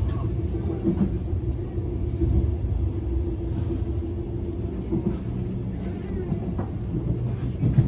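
Cabin noise inside a double-decker electric commuter train: a steady low running rumble with a constant hum over it.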